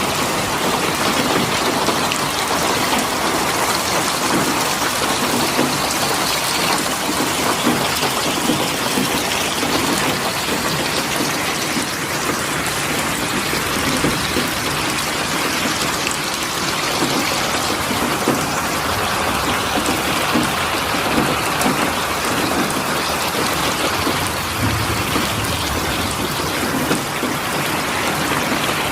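Steady heavy rain falling, with a dense patter of drops hitting a surface.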